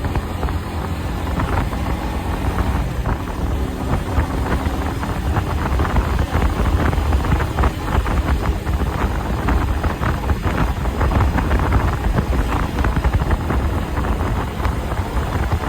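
SM Sport V16 motorcycle engine running steadily through its stock exhaust, with wind buffeting the microphone.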